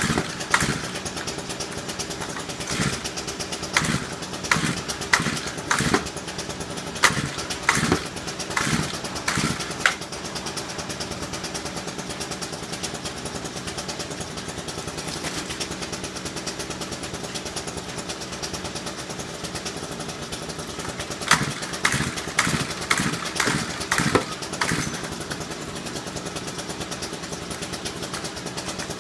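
Small two-stroke engine of a handheld stick tool, running just after a cold start. It mostly runs steadily, with short louder bursts over the first ten seconds and again a little past twenty seconds in.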